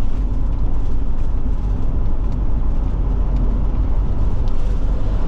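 Forest River Forester motorhome driving at road speed: steady engine and tyre rumble, with no change in pace.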